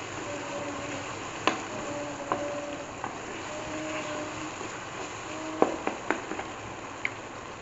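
Onion, tomato and green-chilli masala sizzling in ghee in an aluminium pot as a spatula stirs it. The spatula knocks against the pot now and then, with a quick cluster of knocks near the end.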